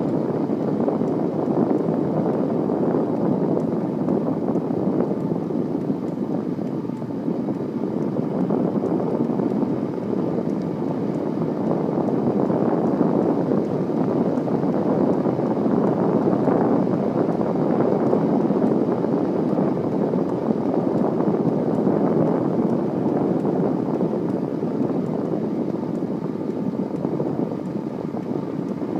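Steady rushing noise of a bicycle ride, wind over the microphone and tyres rolling, swelling a little now and then.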